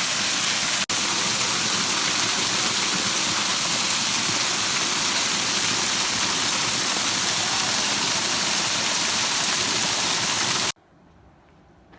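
Steady rush of a waterfall's falling water, which cuts off abruptly near the end, leaving only a faint background.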